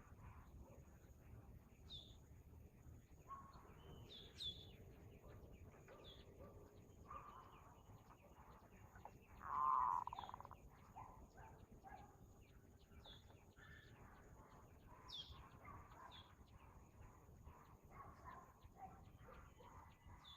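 Faint birds chirping, with short high chirps scattered throughout and one louder, longer sound about ten seconds in.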